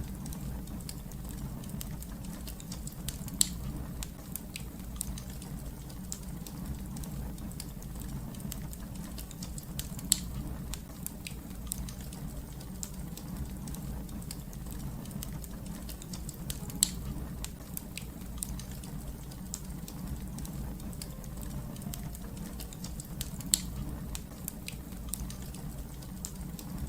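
Fire crackling over a steady low rumble, with frequent small snaps and a louder pop four times, about every seven seconds.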